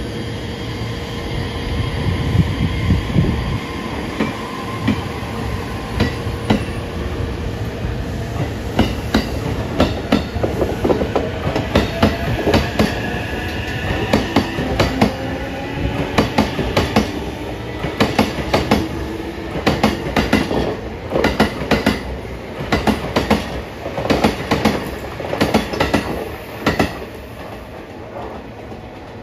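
JR East E231 series 1000 and E233 series 3000 electric multiple unit pulling away and gathering speed, its wheels clacking over the rail joints ever faster. The traction motors' whine rises in pitch as it accelerates, and the clatter fades near the end as the last car passes.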